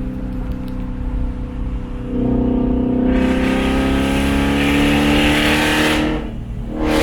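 BMW E34 540i V8 running with its muffler and resonator cut off, stupid loud. The exhaust note jumps louder about two seconds in and climbs steadily in pitch under acceleration, drops away for under a second near the end, then picks up again.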